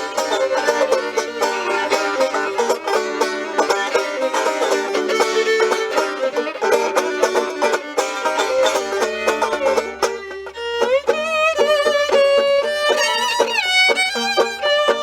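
Acoustic string music with banjo and fiddle: fast picked notes for about the first ten seconds, then a fiddle takes over with sliding, wavering notes.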